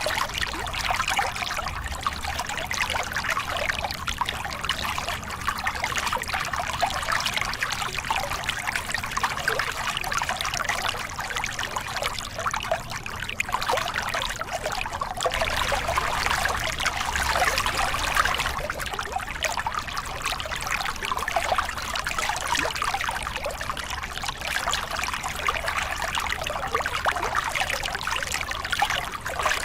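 Small river cascade: water pouring and splashing over rocks with a steady, continuous rush.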